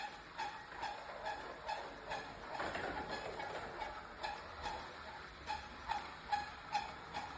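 ECOVACS Deebot T50 Omni robot vacuum running with a steady mechanical clicking, about two clicks a second, and a rushing noise that swells about three seconds in.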